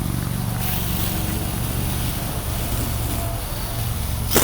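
Heavy tow truck's diesel engine running steadily with a low drone, while the winch lines are worked. One sharp knock comes near the end.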